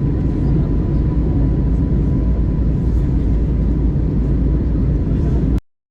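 Airbus A320 airliner cabin noise during the climb after takeoff: a steady, loud rumble of engines and airflow, heard from inside the cabin. It cuts off suddenly near the end.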